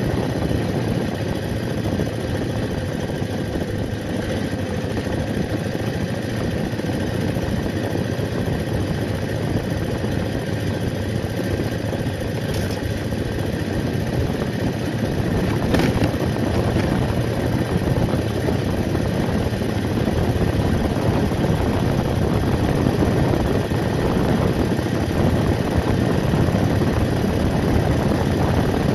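BMW R80RT boxer-twin motorcycle engine running steadily at cruising speed, mixed with wind and road noise.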